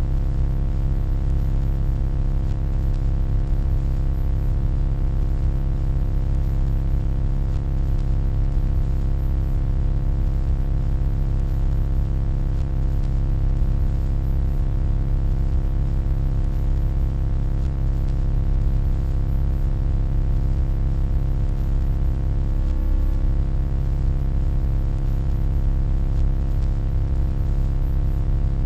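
Steady electronic hum: a deep low drone with a stack of steady tones above it and a faint hiss on top.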